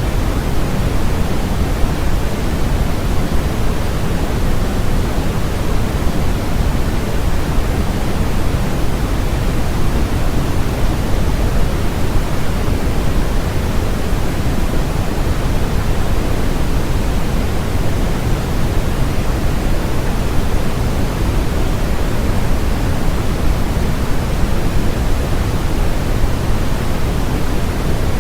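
Steady synthetic noise with its energy weighted toward the low end, like pink noise, unchanging throughout.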